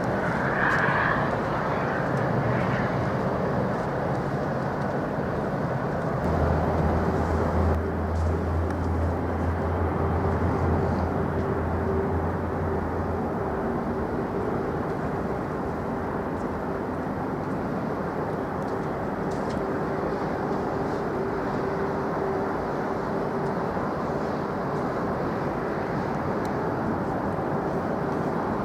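Jet airliner engines running, a steady rushing noise with a faint steady tone, and a low hum for several seconds about a quarter of the way in.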